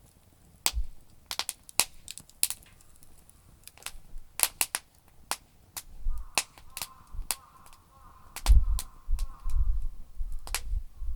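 Campfire of damp firewood crackling, with sharp, irregular pops and snaps. From about eight and a half seconds in, a low rumble joins in and is the loudest part.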